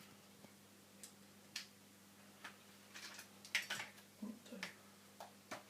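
Scattered small clicks and taps of a microphone and its cable being handled and plugged into a recorder, a cluster of them about halfway through, over a faint steady low hum.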